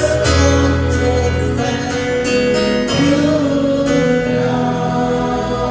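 Live gospel praise-and-worship music: instruments holding sustained chords over a bass line, with singing voices.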